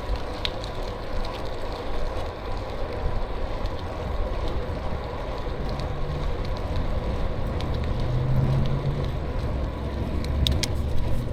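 Steady wind rush and rolling noise from riding an e-bike, with a few light clicks.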